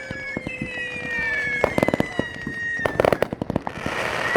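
Fireworks going off: a long whistle slowly falling in pitch, clusters of rapid sharp crackles about two and three seconds in, and a hissing rush near the end.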